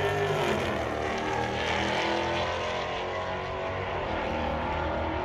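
Drag-racing car engines running loudly and steadily, several engine tones at once, their pitch wavering.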